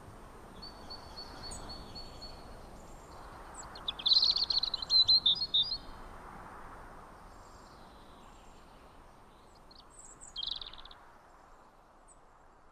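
Birds chirping: a thin trill early on, then a loud flurry of quick chirps about four to six seconds in and another short burst of chirps near ten seconds, over a faint outdoor hiss.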